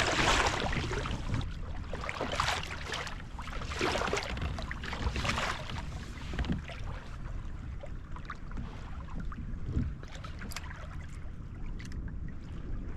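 Wind and water noise around a kayak on open water: rushes of noise in the first few seconds, then quieter, with a few small clicks near the end.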